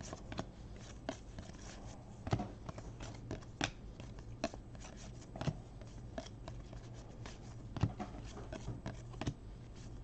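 Baseball trading cards being flipped and slid through the hands, a run of irregular light snaps and rustles with a few sharper ones.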